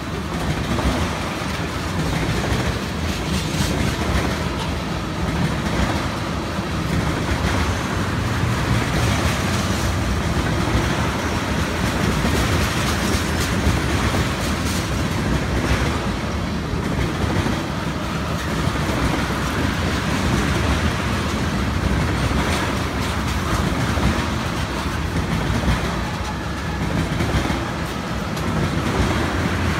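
Freight train of tank cars rolling past: a steady rumble of steel wheels on rail, with a repeated clickety-clack as the wheels cross rail joints.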